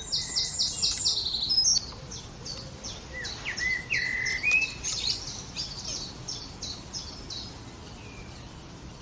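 Songbirds singing: quick runs of short, high notes in the first two seconds and again from about two and a half seconds in, with a few lower, sliding notes around the middle, tailing off near the end.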